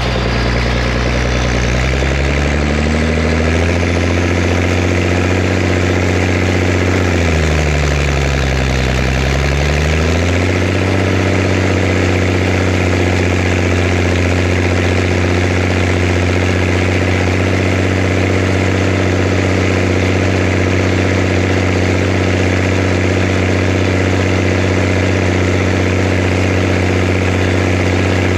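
Zetor Crystal 16145 tractor engine running. The revs climb over the first few seconds, dip briefly and pick back up, then hold steady at a higher speed.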